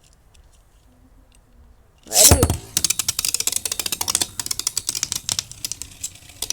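A Beyblade spinning top launched with its ripcord launcher: a loud whirring zip about two seconds in, then a rapid run of rattling clicks as the top spins and knocks about in the plastic stadium, thinning out toward the end.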